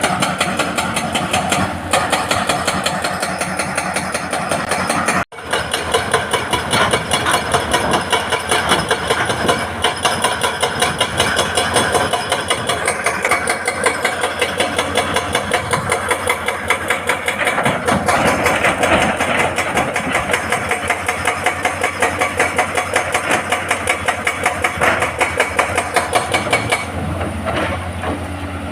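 Hydraulic rock breaker on a Hitachi excavator hammering rock with rapid, evenly repeated blows over the running diesel engine. The sound cuts out for an instant about five seconds in, then the hammering resumes.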